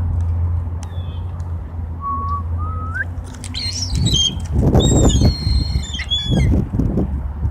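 Gulls calling: a short rising call a couple of seconds in, then a burst of several sharp, sliding squawks in the second half, over a steady low rumble.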